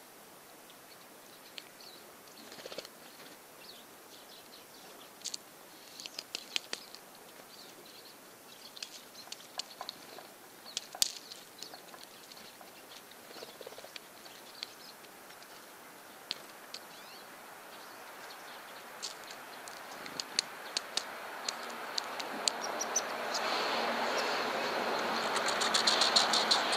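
Hairy woodpecker's sharp single calls and pecking taps, scattered and irregular. In the last several seconds a passing vehicle's rumble builds up and becomes the loudest sound, with a rapid run of clicks near the end.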